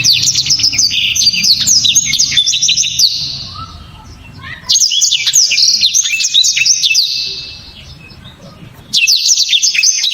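Blackthroat (yellow-rumped seedeater) singing: loud, fast phrases of sharp, high chirping notes, three song bursts of about three seconds each with short pauses between.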